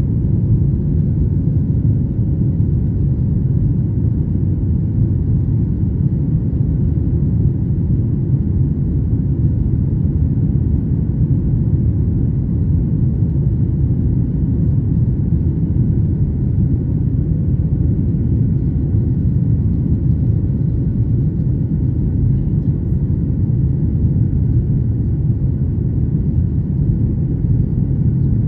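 Steady low rumble of airliner cabin noise from the engines and airflow, heard inside the cabin, with a few faint steady tones above it.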